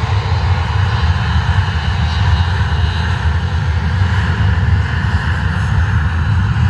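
Embraer E190 jet airliner's twin GE CF34-10E turbofan engines running loud and steady.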